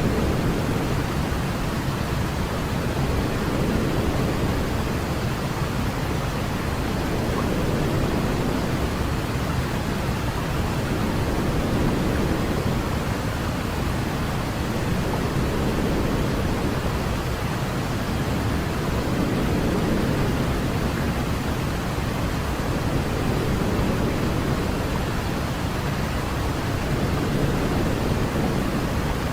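Steady white noise for a baby's sleep, a soft, even rushing hiss weighted toward low pitches, gently swelling and easing every few seconds.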